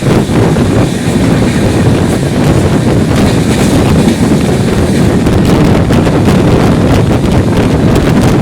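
A moving express train, heard as a loud, steady rush of wind buffeting the microphone over the low rumble of the running train.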